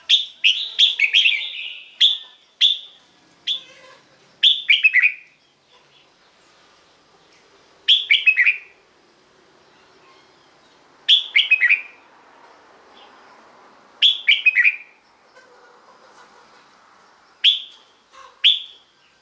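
Red-whiskered bulbul singing short, bright chirping phrases: a quick run of several in the first few seconds, then one phrase about every three seconds. A faint steady high-pitched tone runs underneath.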